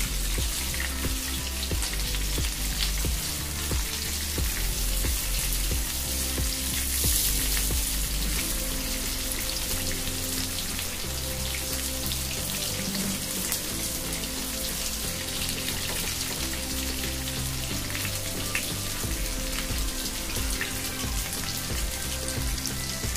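Prawns frying in hot oil in a pan, sizzling steadily, with background music underneath.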